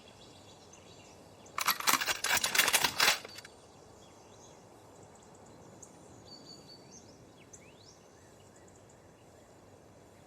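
A burst of sharp clicks and clatter lasting about a second and a half. After it comes a quiet outdoor background with a few faint bird chirps.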